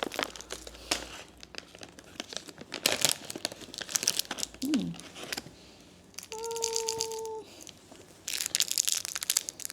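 Plastic snack wrapper crinkling and tearing as it is opened, in three bursts of rustling. Around the middle a brief steady tone sounds for about a second.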